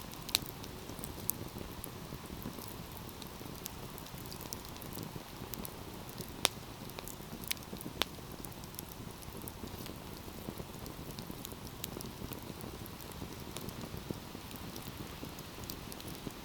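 Wood fire burning: a steady low rushing of the flames with frequent small crackles and a few sharper pops.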